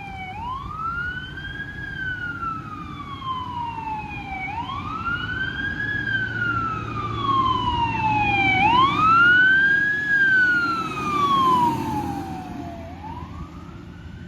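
Fire engine siren on a slow wail, rising and falling about every four seconds, with the truck's engine rumbling underneath. It grows louder as the truck passes, loudest around two-thirds of the way through, then fades.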